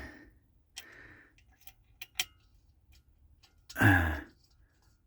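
A man's breathy exhalations and a couple of sharp small clicks of parts being handled around two seconds in, then a loud groan that falls in pitch about four seconds in, strained noises that he puts down to his aching hands.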